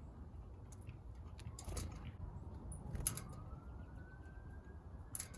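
Faint distant siren wail rising slowly in pitch, starting about three seconds in, with a few sharp taps, the loudest three about two, three and five seconds in, over a low background rumble.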